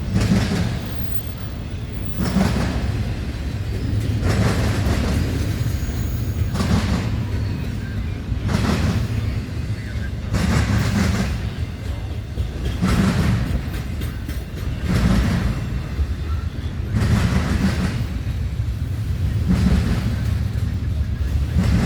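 CSX train cars rolling past with a steady low rumble. Wheel clunks recur about every two seconds, often in pairs, as the wheel sets pass over rail joints.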